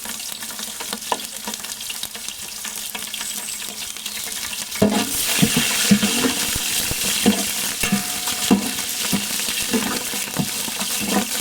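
Green chillies, curry leaves and whole spices sizzling in hot oil while being stirred, with scattered knocks of the stirring spoon against the pan. The sizzle gets louder about five seconds in.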